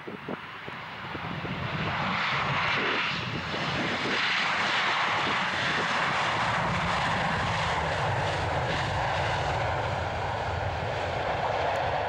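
Transavia Boeing 737-800's twin CFM56 jet engines passing close by on approach to land: a loud jet rush that swells in about two seconds in, then holds, sliding slowly lower in pitch as the airliner goes past.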